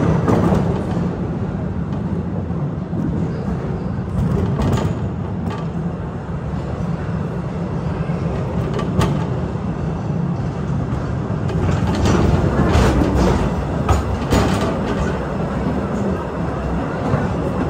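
Narrow-gauge cave train running along the track, a steady low rumble with scattered sharp clicks and knocks from the wheels on the rails, a cluster of them about two-thirds of the way through.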